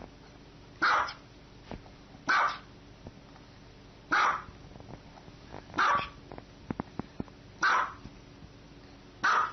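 A dog barking six single barks, one about every one and a half to two seconds.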